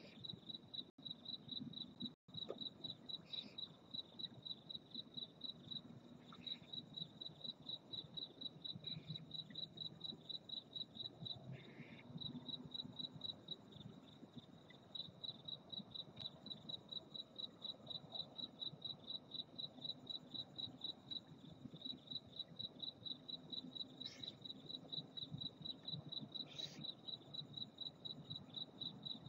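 Cricket chirping steadily at night: a single high-pitched, evenly pulsed trill that runs without a break.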